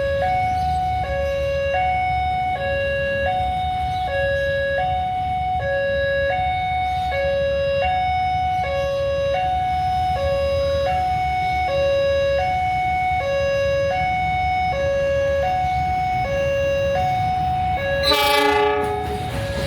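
Railway level-crossing warning alarm sounding a steady high-low two-tone signal, over a low rumble, warning that a train is approaching. Near the end a short, louder horn blast cuts in.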